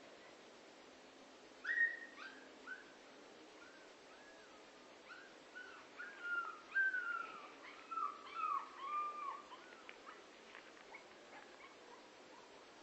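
A dog whimpering: a string of short, high, whining calls, each bending up and then down in pitch, starting about two seconds in and dying away a few seconds before the end.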